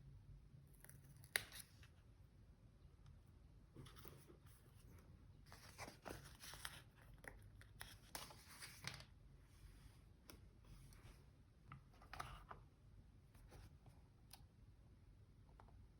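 Faint paper-and-stationery handling of scrapbook diary decorating: short soft rustles and scrapes of paper, busiest in the middle, with a few light clicks, the sharpest about a second in.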